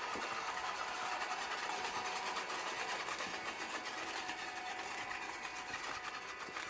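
Electric motor and gears of a WPL D12 1/10 RC drift truck running with a steady whine.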